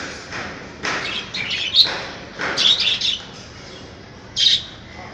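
Budgerigars chirping and chattering in short bursts, with a brief loud call near the end.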